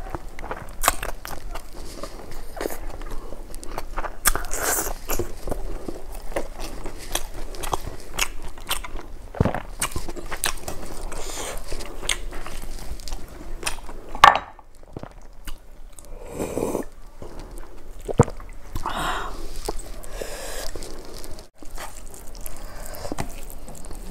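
Close-up eating sounds of rice and vegetables eaten by hand: irregular chewing and crunching with many small wet clicks and smacks, and one sharp loud click about two-thirds of the way through.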